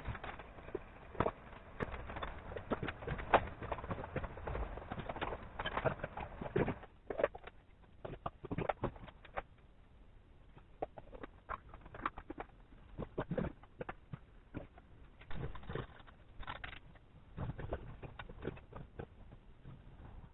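Irregular clicks, knocks and clinks of hand tools and metal parts being handled during motorcycle assembly, with a quieter stretch in the middle.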